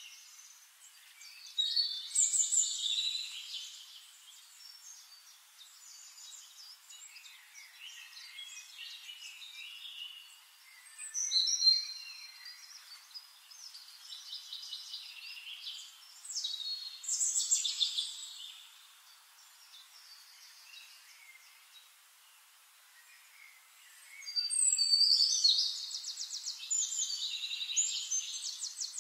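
Birds singing: bursts of fast high trills and chirps every several seconds with quieter gaps between, the longest burst near the end.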